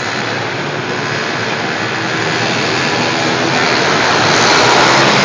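Pit bike engines revving hard as they race, growing louder over the second half.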